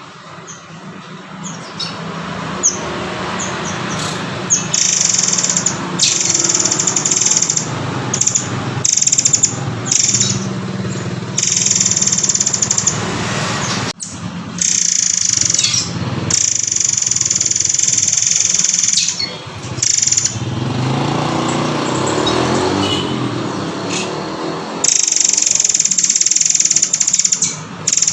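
Murai air (murai kopi) birdsong played as a training recording: repeated high-pitched call phrases, some held for a second or more, over a steady hissing background.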